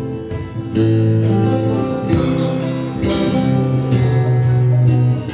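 Band music with strummed acoustic guitar over a bass line, an instrumental passage without singing.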